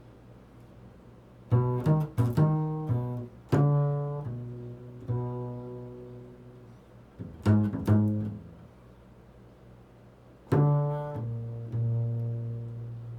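Slow improvised solo on a low plucked string instrument: single notes and short quick runs of two or three notes, each ringing out and fading, with gaps between the phrases.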